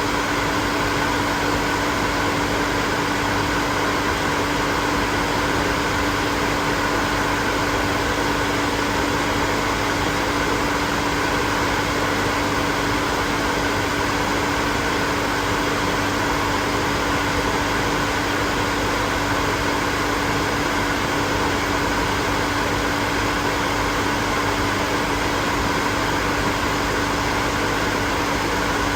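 Hair dryer running continuously: a steady rush of air with a constant motor hum, unchanging throughout.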